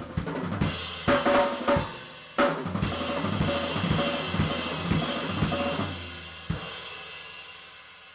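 Drum kit played hard in fast fills on snare, bass drum and cymbals, ending on one last cymbal crash that rings out and fades away.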